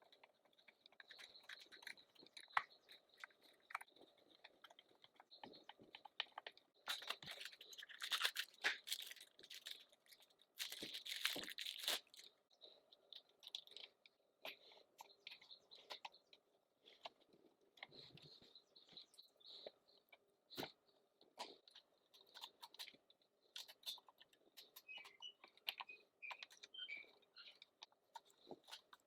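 Faint handling noise from tools and parts: scattered light clicks and taps, with two louder spells of scraping about seven and eleven seconds in.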